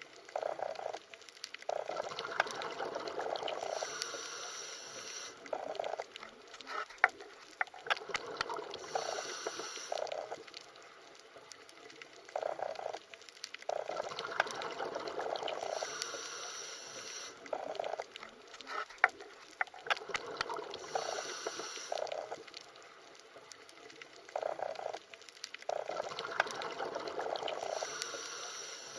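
Underwater bubbling and gurgling water that swells and fades again every few seconds, with scattered sharp clicks.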